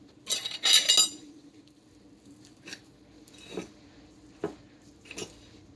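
Metal cutlery clinking against a plate with a brief ringing tone in the first second, followed by a few faint taps and knocks of utensils on dishes.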